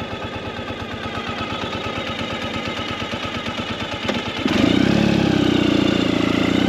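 Ural sidecar motorcycle's flat-twin engine chugging with a rapid, even beat at low revs, then about four and a half seconds in it gets suddenly louder as the throttle opens and the bike pulls away.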